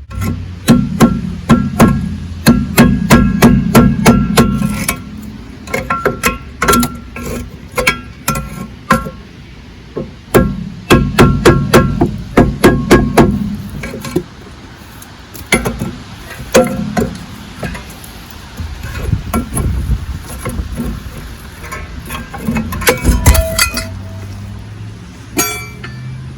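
Hammer blows on a rust-seized rear brake drum, metal on metal, each strike followed by a short ringing. The blows come in rapid bursts of several strikes, with pauses between, and thin out toward the end.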